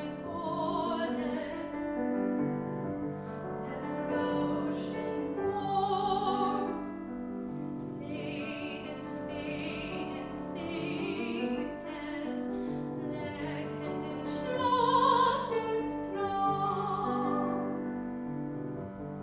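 Classical, opera-style singing with vibrato, accompanied by piano, swelling to its loudest on a high held note about fifteen seconds in.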